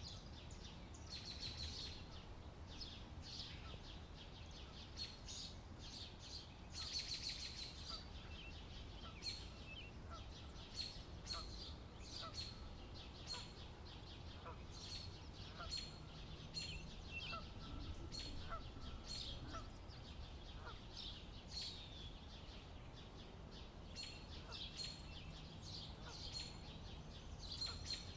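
Wild birds chirping, many short high calls scattered throughout, over a faint low rumble of wind.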